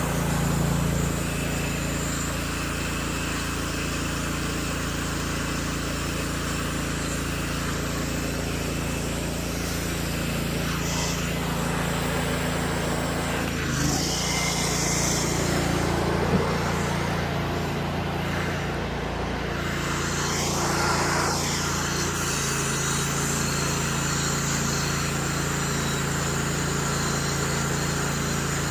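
Pressure washer engine running steadily at a constant pitch, with a hiss of high-pressure water spray rising twice, about halfway through and again a few seconds later.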